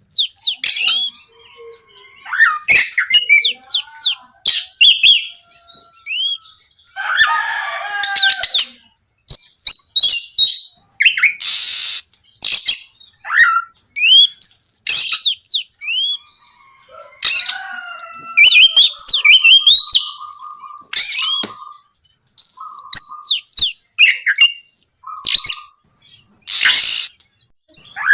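Oriental magpie-robin singing a loud, varied song of quick rising whistles and rapid note runs, broken twice by a harsh rasping note.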